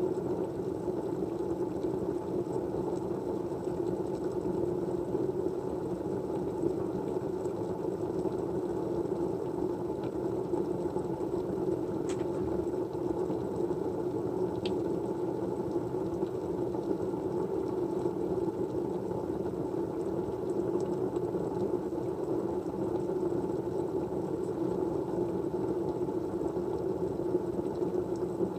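Steady white noise: an even, muffled rushing hiss that never changes and has no rhythm. Two faint ticks come partway through.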